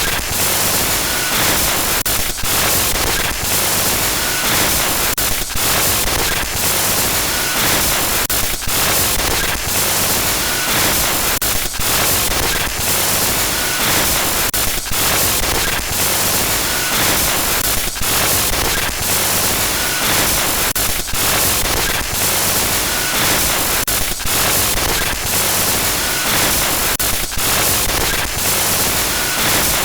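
Harsh glitch static: a loud, continuous hiss that fills the whole range, stuttering with brief dropouts many times a second in a loop that repeats about every three seconds.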